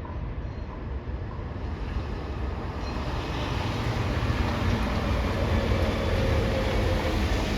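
A heavy vehicle's engine running and drawing nearer: a low rumble that grows louder over the first few seconds, then holds steady.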